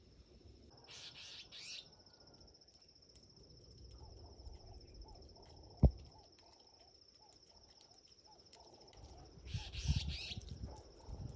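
Insect trill: a steady, finely pulsing high-pitched chirring, with short bursts of bird chirps about a second in and again near the end. A single sharp knock just before the middle is the loudest sound.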